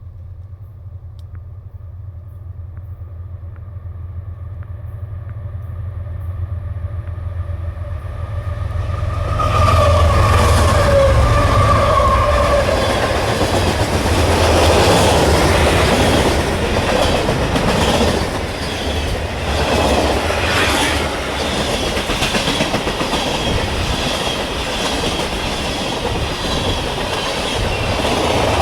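Diesel freight train approaching, its locomotive's low rumble growing steadily louder, then passing close about nine seconds in. After that the freight cars roll by with a loud, steady roar and clickety-clack of wheels on the rail joints.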